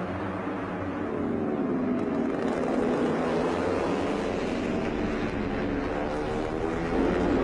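MotoGP racing motorcycle engines at high revs, their pitch sweeping up and down as the bikes pass, louder near the middle and again near the end.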